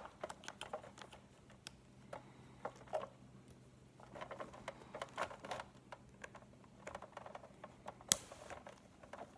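Small clicks, taps and rustles of hands handling a Big Mouth Billy Bass's plastic body and rubber skin, with one sharper click about eight seconds in, over a faint steady hum.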